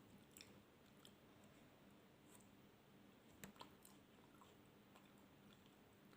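Faint close-miked chewing of food with a few soft wet mouth clicks, the clearest pair about three and a half seconds in, over low room hiss.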